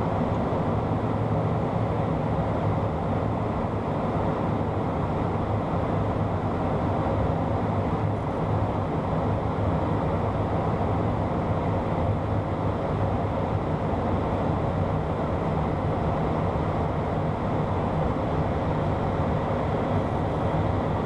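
Steady cockpit noise of a Beechcraft Premier I twin-turbofan business jet in flight: a constant rush of airflow and engine noise with a low hum underneath.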